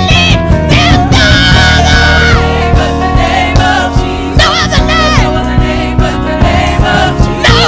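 Live gospel praise music: voices singing a melody over a band, with a steady bass and drums.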